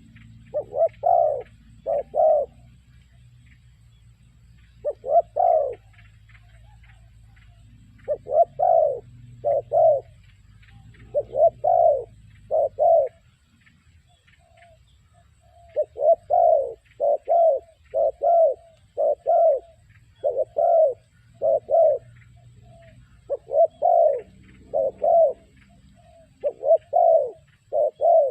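Spotted dove cooing: short low coos in phrases of two or three, repeated with pauses of a second or a few seconds between phrases.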